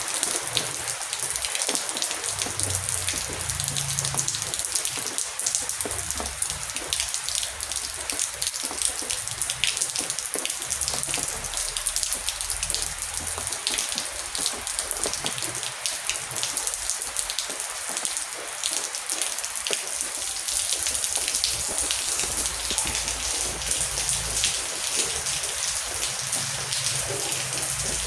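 Heavy rain falling steadily, a dense hiss full of close drop ticks. A low rumble comes and goes underneath.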